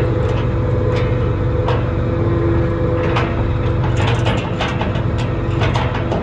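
A vehicle engine running steadily with a low hum, with scattered short metallic clicks and clanks over it, several close together about four seconds in.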